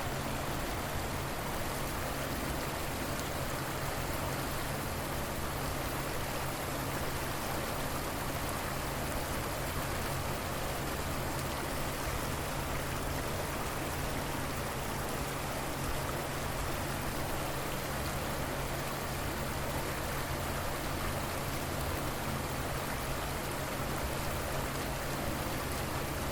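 Steady, unbroken sound of a river's water flowing.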